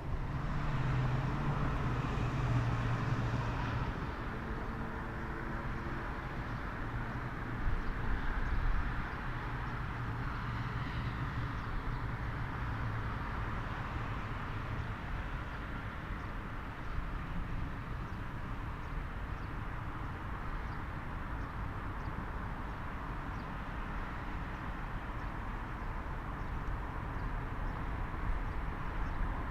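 Boeing 737-800 jet engines on final approach, loudest in the first few seconds with a low hum, then fading away into a steady low rumble.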